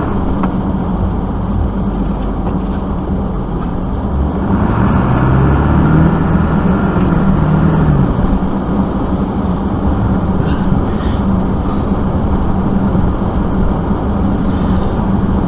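Vehicle engine running with a steady drone. About four seconds in it revs up, holds higher for a few seconds, then drops back.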